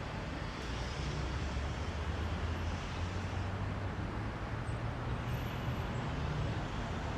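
Heavy rush-hour city road traffic: a continuous rumble of car and bus engines and tyre noise.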